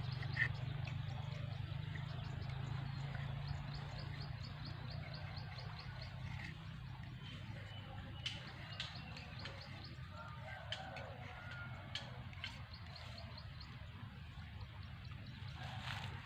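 Birds chirping over a steady low hum, with a few sharp clicks scattered through the middle.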